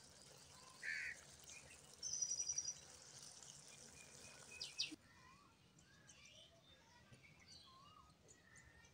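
Faint background with small birds chirping: a quick stuttering chirp about two seconds in and a few short chirps around it. The hiss drops away about halfway through, leaving soft scattered twittering.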